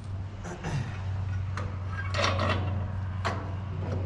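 Metal parts and tools being handled on farm machinery: several separate knocks and clinks over a steady low hum.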